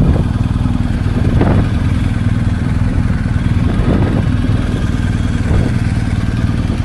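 Motorcycle engine running steadily at an even speed, with the low pulsing of its firing and a haze of wind and road noise.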